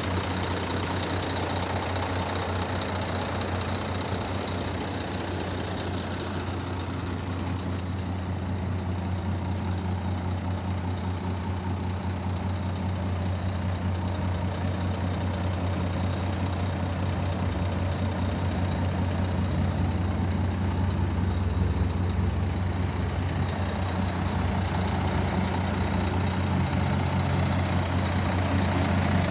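Scania G420 truck's inline-six diesel engine idling steadily with a low, even hum, growing a little louder in the second half.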